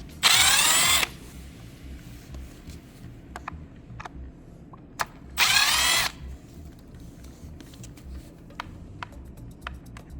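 Cordless power driver backing out the steering wheel's screws: two short whirs of about a second each, rising in pitch as the motor spins up, the first right at the start and the second about five seconds later, with light clicks of the screws and parts in between.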